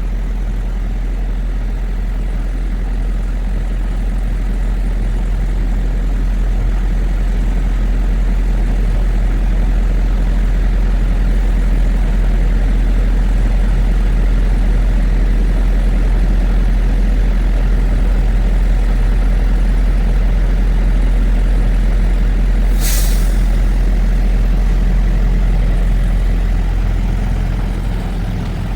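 Semi-truck running, a loud, steady low drone of engine and road noise heard from the cab. About three-quarters of the way through comes one short hiss of air, typical of the truck's air brakes.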